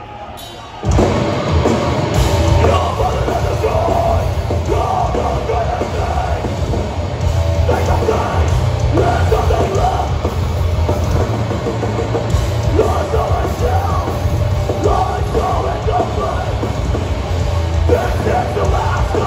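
Live metalcore band playing loud and heavy, with distorted guitars, bass and pounding drums under shouted vocals. The music kicks in suddenly about a second in.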